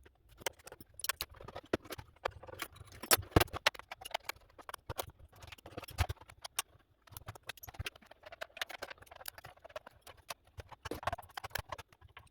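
Rapid, irregular clicks and knocks of plastic and metal parts being handled as a PlayStation 4 console is taken apart.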